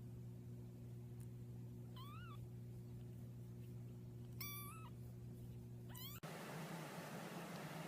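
A cat meowing three times in short, high calls over a steady low hum. The hum cuts off about six seconds in, leaving faint hiss.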